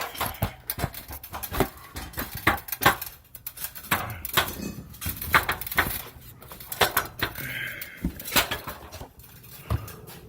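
Wooden deck boards and debris clattering and knocking during demolition: irregular sharp knocks, several a second, with no steady engine sound.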